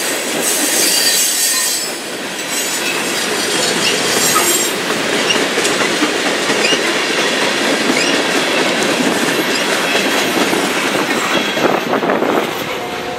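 Freight train cars rolling past close by: a steady rumble and rattle of steel wheels on rail, with thin high wheel squeals now and then. The noise drops as the end of the train goes by, near the end.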